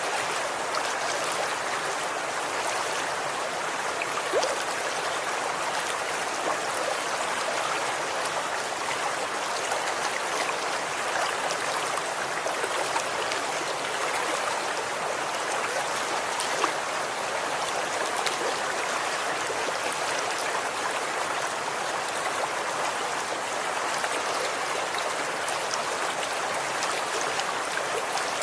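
Running water flowing steadily, a stream's even rushing with small splashes and drips now and then.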